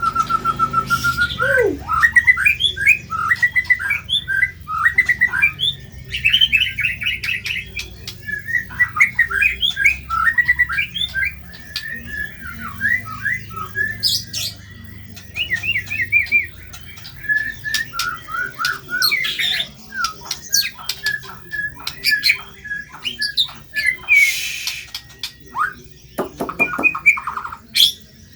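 White-rumped shama (murai batu) singing a long, varied song: rapid whistled phrases, trills and harsh, rasping notes, with a held whistle at the start.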